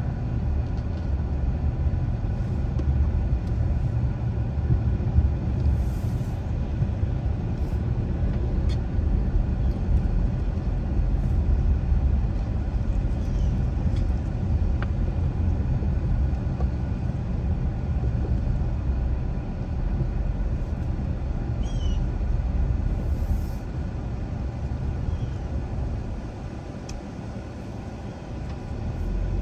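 Car driving, with a steady low rumble of road and engine noise. It eases off for a few seconds toward the end, as if slowing, then picks up again.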